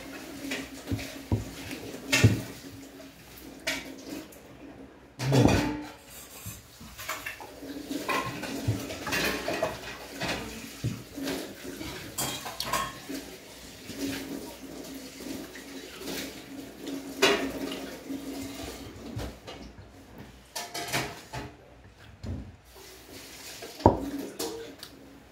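Cutlery clinking and scraping on a plate while a meal of sausage and rice is eaten: scattered light clicks, with a louder knock about five seconds in.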